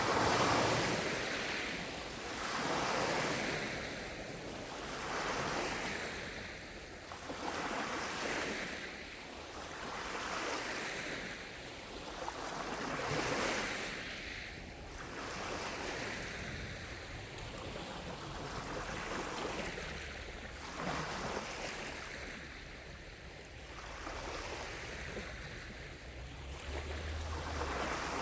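Small lake waves lapping on the shore, each gentle wash swelling and fading about every two seconds.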